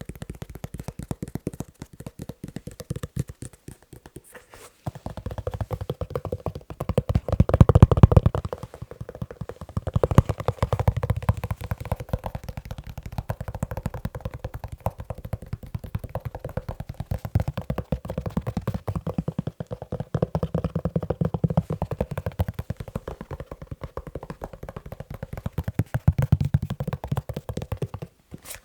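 Fast tapping on a leather shoe: a dense, rapid run of taps, louder and fuller about eight seconds in and again near the end.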